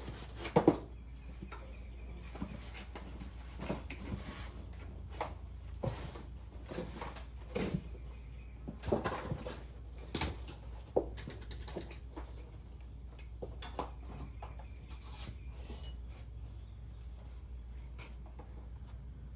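Irregular knocks, clicks and clanks of tools and parts being handled during hands-on work, over a steady low hum. No engine is running.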